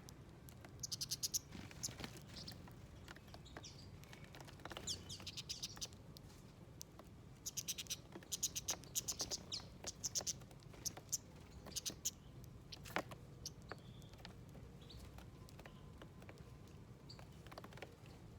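Small wild songbirds chirping in quick runs of high, rapidly repeated notes, in three bouts, with scattered sharp clicks between them.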